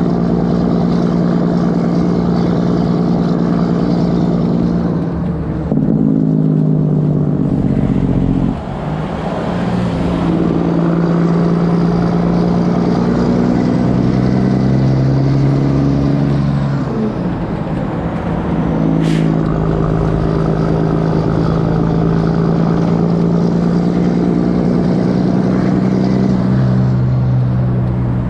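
Straight-piped diesel engine of a Kenworth W900 truck running loud and steady, its pitch dropping and climbing back a few times. A single sharp click about two-thirds of the way through.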